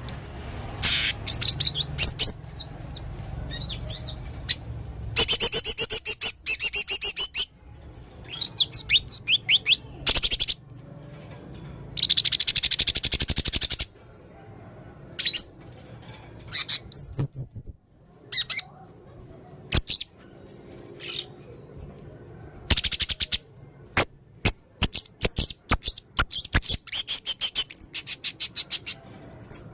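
Male blue-crowned hanging parrot (serindit) calling in rapid bursts of shrill, high-pitched chirps and trills. About halfway through it gives a harsh, buzzy call lasting a couple of seconds, followed by quick rising whistles.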